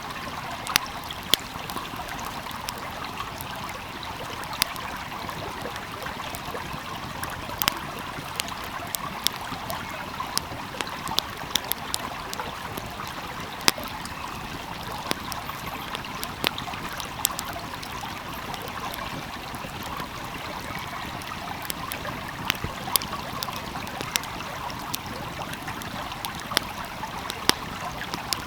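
Wood fire crackling, with sharp irregular pops and snaps, over the steady rush of a small flowing stream.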